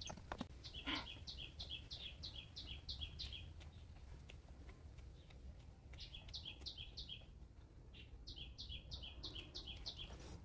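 A songbird singing a fast, repeated two-note phrase, about three phrases a second, in three runs, over a steady low rumble.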